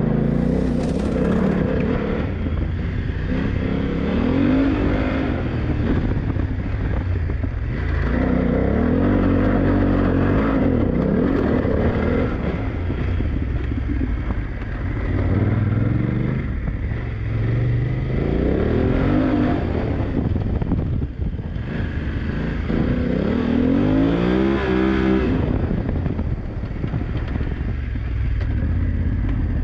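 BMW F900GS's parallel-twin engine heard from on board, revving up hard and easing off several times as the bike is ridden aggressively on an off-road track.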